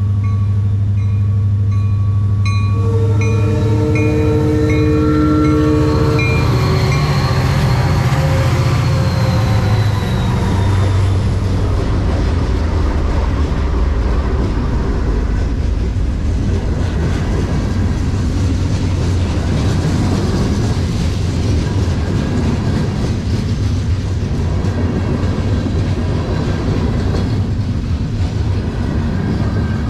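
Canadian National diesel freight train passing close by. For the first several seconds the locomotive's horn sounds over a steadily clanging bell and the low drone of the diesel engine. The cars then roll past with a steady rumble of wheels on rail.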